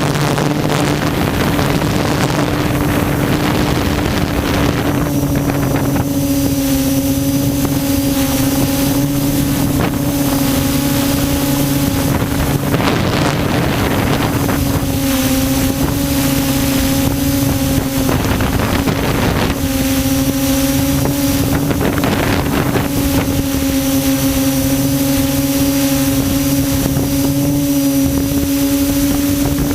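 QAV400 quadcopter's electric motors and propellers humming steadily in flight, heard from the on-board GoPro, with wind rushing over the microphone.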